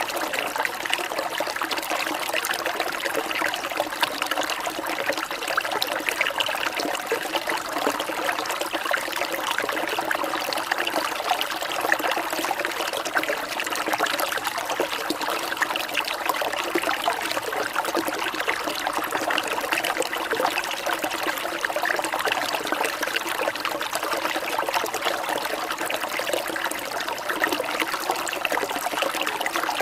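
Steady rain falling with water trickling and dripping: an even, unbroken patter of many small drops.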